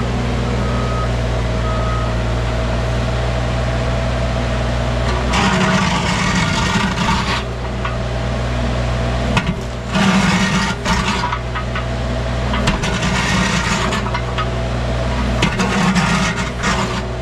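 Wacker Neuson EZ36 mini excavator's engine running steadily, with two short high beeps early on. From about five seconds in, the bucket and thumb scrape and crunch through debris and a wooden pallet in four spells of a second or two each, the engine pulling under hydraulic load.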